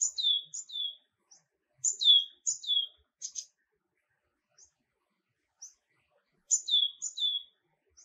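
Small songbird calling: a short high chip that slides down into a lower note, given in quick pairs three times, with single high chips scattered between.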